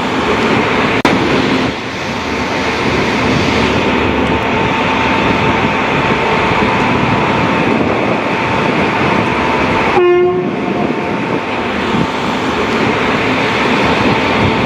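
Train noise: a loud, steady rumble and hiss with a long held horn tone over roughly the first ten seconds. The sound changes abruptly about ten seconds in.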